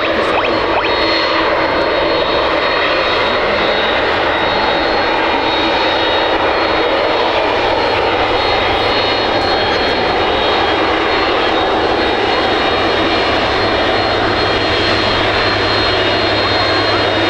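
Airbus Beluga A300-600ST's General Electric CF6-80C2 turbofan engines running at close range: a loud, steady rush with a thin high whine over it.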